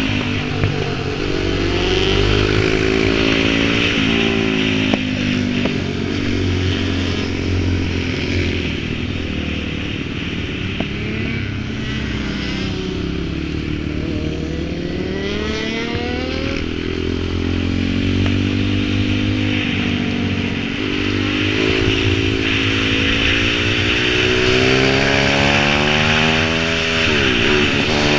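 Pit bike engine being ridden, its pitch rising and falling as the throttle is opened and closed, with a sharp drop and climb near the end.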